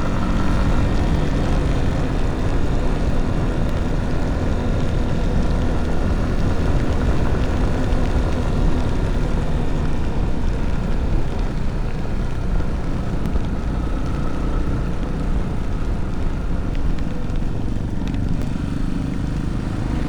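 Motorcycle engine running steadily while riding, a continuous drone with no clear gear changes or breaks.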